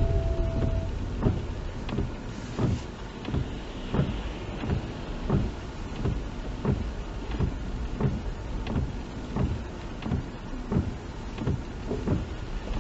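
Car cabin while driving: steady low road and engine rumble with a short, even click about every 0.7 seconds.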